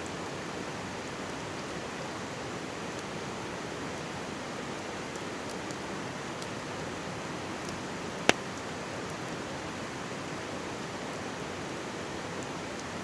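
Mountain stream babbling steadily, with faint crackles from a wood campfire and one sharp pop of burning firewood about eight seconds in.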